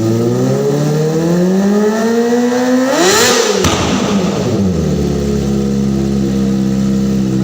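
Kawasaki ZX-25R's inline-four engine through a full-system racing exhaust, revving. The pitch climbs gradually, then sharply to a high peak about three seconds in, then drops back and settles into a steady idle.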